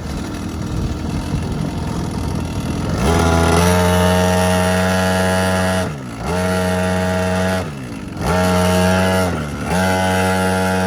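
Small two-stroke quad bike engine running at low revs, then opened up about three seconds in and held at a steady high pitch. The throttle is let off and reopened three times, the pitch dropping and climbing back each time.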